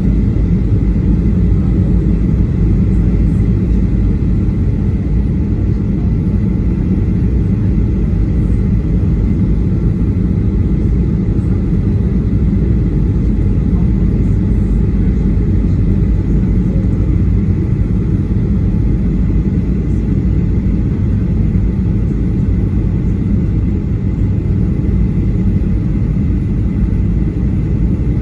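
Cabin noise aboard a Boeing 737-800 in flight: a steady low rumble of the CFM56-7B engines and airflow, with a faint steady whine above it.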